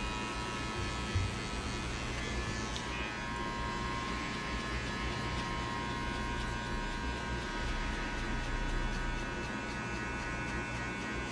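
Electric hair clippers running steadily while cutting a fade, with a brief low knock about a second in.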